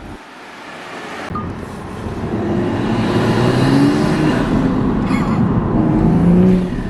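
A 2023 manual Toyota Supra's turbocharged 3.0-litre inline-six, fitted with a CTS intake and catless downpipe, accelerating under load. The engine and exhaust noise builds over the first few seconds and holds loud, with a brief break about five seconds in.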